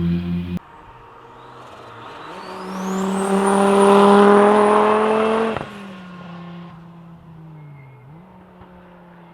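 Rally car passing at speed. Its engine note grows loud as it nears, with a high whine climbing above it and then holding. The sound drops off suddenly just past the middle, leaving a fainter engine note that dips and then picks up again.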